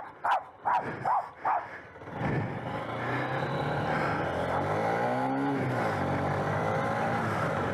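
A dog barks four times in quick succession. Then the motorised bicycle's small engine picks up about two seconds in and runs steadily, rising in pitch as it revs and easing off again.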